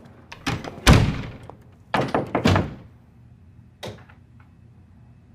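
Several loud, hollow thuds and knocks: a heavy one about a second in, a quick run of strikes around two seconds, and a single one near four seconds.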